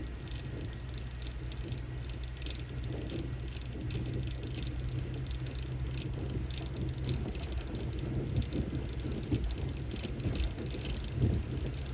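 Car interior noise while driving: a steady low engine and road drone, with irregular light clicks and rattles over it, an unidentified rattle the driver cannot place.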